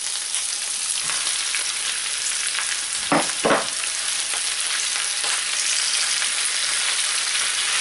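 Onion and garlic frying in olive oil with a steady sizzle. About three seconds in there are two short knocks as pieces of marinated chicken are dropped into the hot pan.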